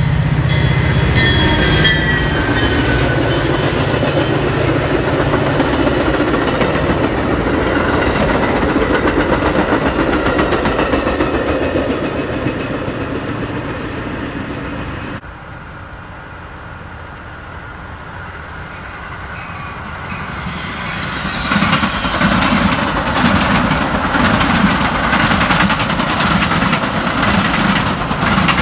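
Metra commuter trains passing. First a diesel locomotive's engine and the train's wheels on the rails pass by, then the sound drops off suddenly. After that a second train of bilevel gallery cars comes up and passes close, with its wheels clicking steadily over the rail joints.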